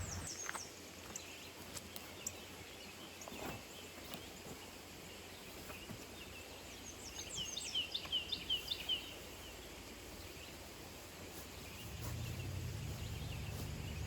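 Wild songbirds chirping: a few high chirps at the start, then a quick run of chirps about seven to nine seconds in, over faint background noise. A low steady hum comes in about twelve seconds in.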